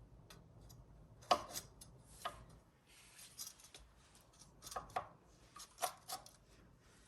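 Light metal clicks and scrapes of hand tools working on a hydraulic disc brake caliper, spreading the gap between the pads. It is a scattered series of short clicks, the loudest a little over a second in.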